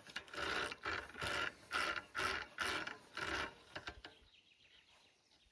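Fishing reel being wound in, a ratcheting whir with each turn of the handle, about two turns a second, stopping about three and a half seconds in.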